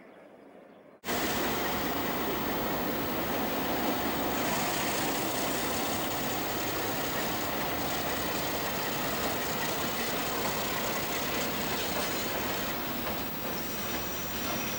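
Diesel-hauled freight train passing close by: a loud, steady rumble and rattle of locomotive and wagons that starts abruptly about a second in.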